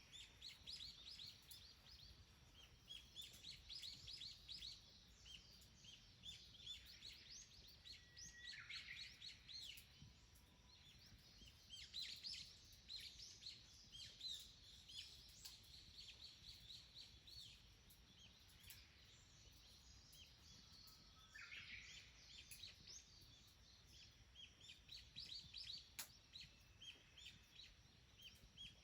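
Wild songbirds chirping and twittering: quick runs of short, high notes that overlap one another, with a couple of brief lulls.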